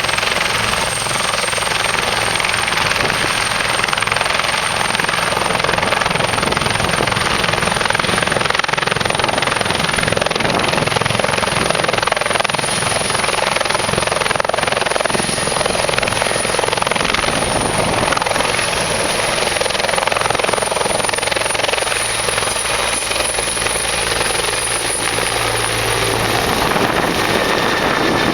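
Bell 412 helicopter's twin turboshaft engines and four-blade rotor running steadily, with a thin high whine over the rotor noise.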